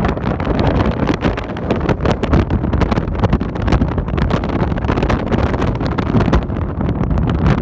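Strong wind buffeting the microphone: a loud, continuous low rumble with crackling gusts coming every fraction of a second.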